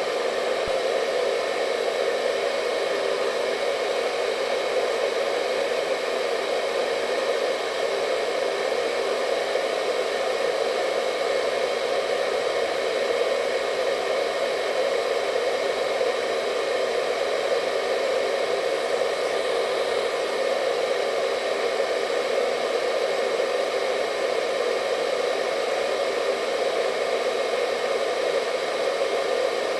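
Hair dryer running steadily: an even, unchanging rush of air with a faint motor whine.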